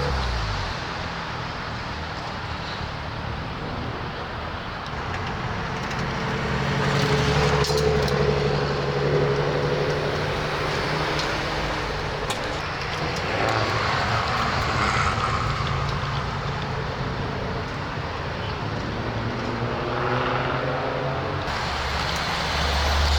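Car engines running at low revs, a low rumble that swells as cars move past, loudest about a third of the way in and again near the end.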